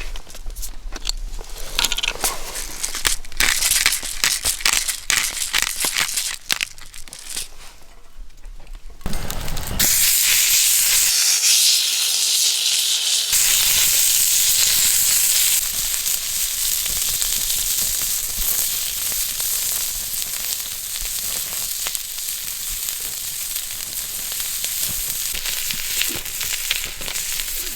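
Irregular crackling and clicking, then, from about ten seconds in, the steady hiss of food sizzling in a hot pan.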